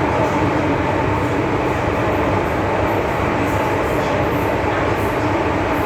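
MTR M-Train electric multiple unit running at steady speed, a continuous rumble of wheels on rail and traction noise with a faint steady hum.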